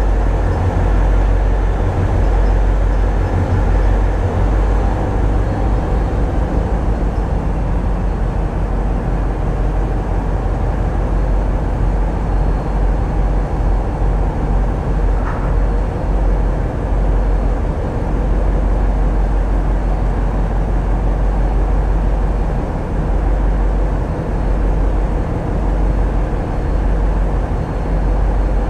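Tugboat diesel engines running steadily, a loud, deep, unbroken rumble heard on board the vessel.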